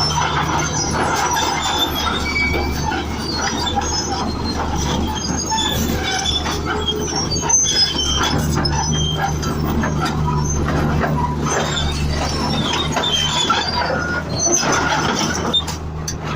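Komatsu bulldozer running: a steady low engine hum under many short, scattered squeaks and squeals from its steel crawler tracks.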